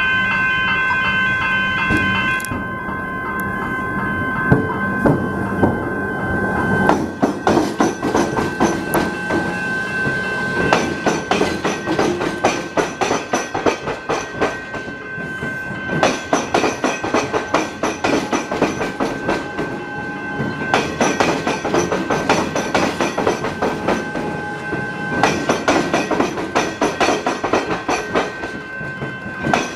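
An electric train crossing the tram square, where tram tracks cross the railway. Its wheels clatter rapidly and continuously over the crossing's rail gaps from about seven seconds in, and a steady high whine sounds through most of it.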